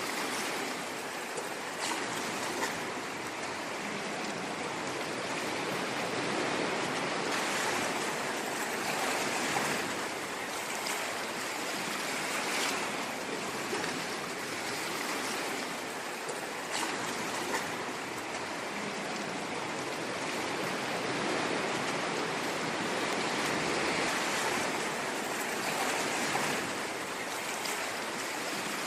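Ocean waves washing in: a continuous rushing wash that swells and eases every few seconds, with a few brief splashes.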